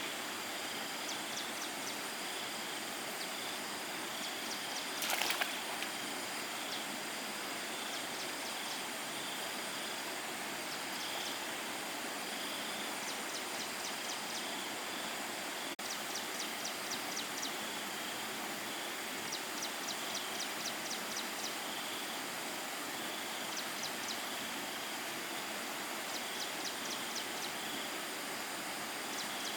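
Steady outdoor rushing noise with short repeated trains of rapid high-pitched ticks, and one brief louder rustle about five seconds in.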